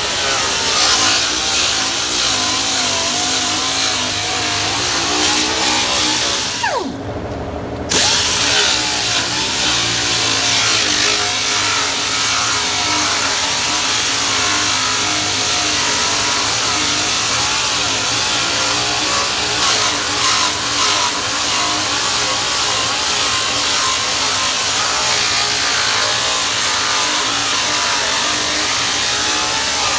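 Grinder stripping undercoating and rust from the steel of a car's quarter panel, its pitch wavering as it bites and eases. About seven seconds in it is let off briefly, its pitch falling as it spins down, then it is run up and bears down again.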